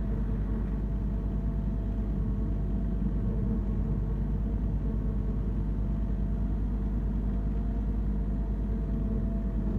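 Branson 3520R compact tractor's diesel engine running steadily while mowing, a constant low hum with a steady whine above it.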